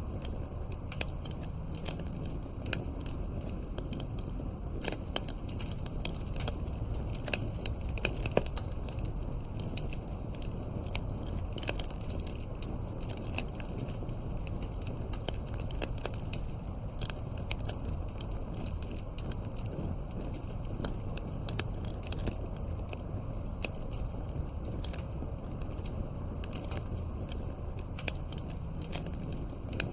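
Wood campfire burning: a steady low rush of flame with many sharp crackles and pops from the burning wood, most frequent in the first third.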